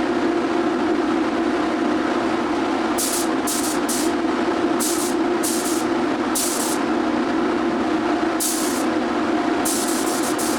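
DeVilbiss FLG4 air spray gun hissing in repeated short bursts as the trigger is pulled, about eight of them from about three seconds in. Underneath runs a steady machine hum.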